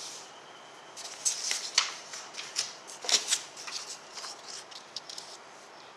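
Irregular scratchy rustling strokes, several a second, starting about a second in and dying away shortly before the end.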